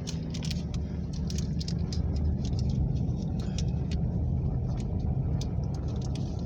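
A car driving slowly through deep powder snow, heard from inside: a steady low engine and tyre rumble, with scattered short clicks.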